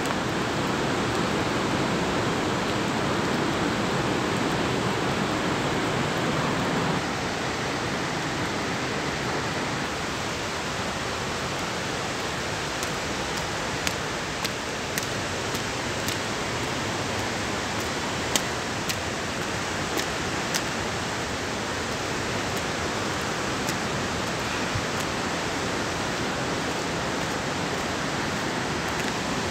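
Stormy weather: a steady rushing noise that drops a little after about seven seconds, with a scatter of sharp ticks through the middle.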